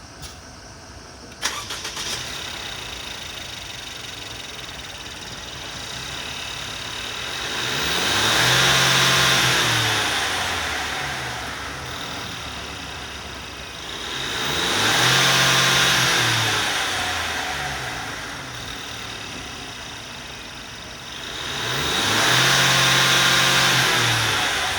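2021 Mercedes-Benz Sprinter 2500 van engine cranking and catching about a second and a half in, settling to a steady idle, then revved three times, each rev climbing and falling back to idle over a few seconds.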